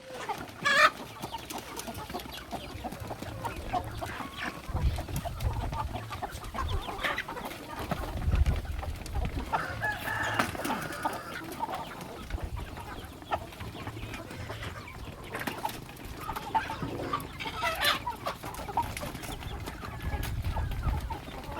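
Chickens clucking and calling at intervals, with a sharp, loud call about a second in and low rumbling noise now and then.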